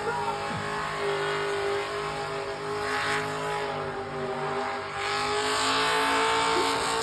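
A car doing a competition burnout: its engine is held at steady revs while the tyres spin on the pad. The noise grows louder about five seconds in.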